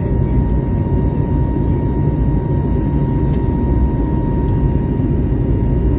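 Airliner cabin noise in flight: a steady, even roar of the jet engines and airflow, with a thin steady high tone running through it.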